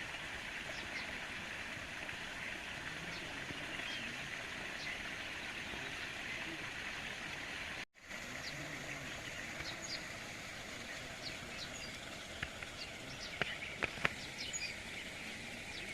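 Outdoor nature ambience: a steady hiss with scattered short bird chirps, which come more often in the second half. The sound drops out briefly about halfway, and a few sharp clicks come near the end.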